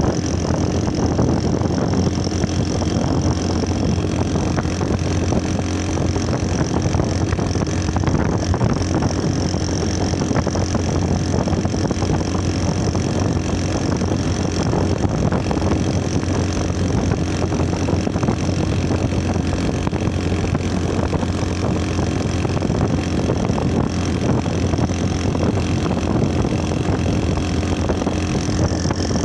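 Motorcycle engine running at a steady idle, an even low drone with no revving, and a steady high-pitched tone above it.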